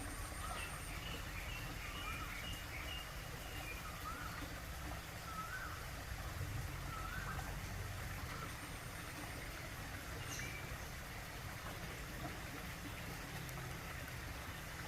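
Outdoor ambience under a steady low rumble, with a small bird chirping in short wavering notes through the first half, and a thin high pulsed buzz near the start and again a little past halfway.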